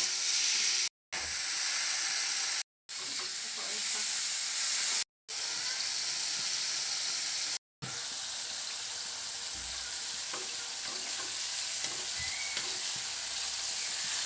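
Wild mushrooms with shallots and garlic sizzling as they fry in a pan, stirred now and then; the steady sizzle breaks off in four brief silent gaps in the first half.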